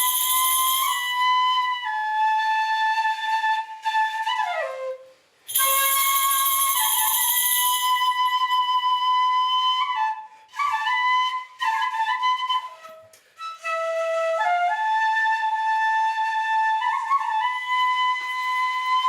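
Solo flute playing a slow melody of long held notes that slide between pitches, some notes with a breathy rush of air, with short breaks about five seconds in and again around ten to fourteen seconds in.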